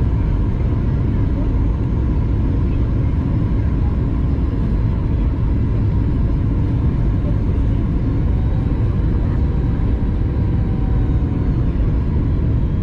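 Steady low cabin rumble aboard a Boeing 737 MAX 8-200 airliner, the drone of its CFM LEAP-1B engines heard from inside the cabin, with a faint steady tone on top.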